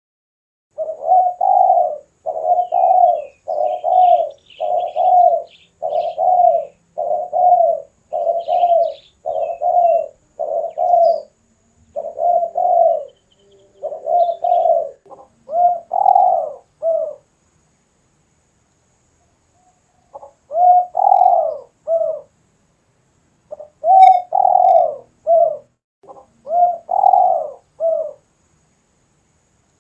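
Spotted dove (tekukur/derkuku) cooing over and over in long runs of low, even coos, with a pause of about three seconds midway before the cooing resumes. A few faint chirps of small birds sound in the background.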